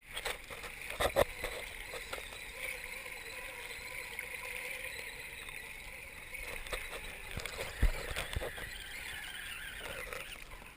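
Radio-controlled scale 4x4 trucks driving through mud and slush: a steady, slightly wavering whine from the electric motor and drivetrain, with a few short knocks and splashes, the sharpest about a second in and near eight seconds.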